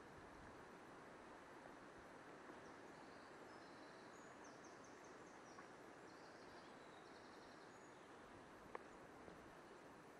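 Faint outdoor ambience: a low steady hiss, with a small songbird singing high, quick chirps and a short rapid trill in the middle. One light click near the end.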